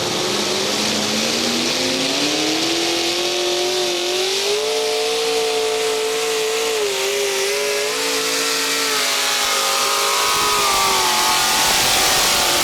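Modified pulling tractor's engine at full power hauling a weight-transfer sled. It climbs in pitch over the first few seconds as it launches down the track, then holds at high revs, wavering slightly up and down.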